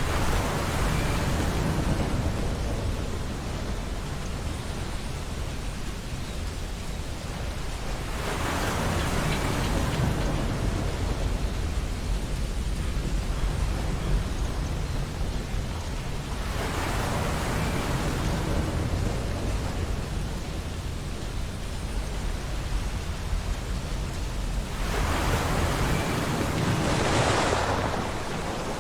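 Ocean surf on a beach: waves break and wash in four times, about every eight seconds, over a steady low rumble of the sea.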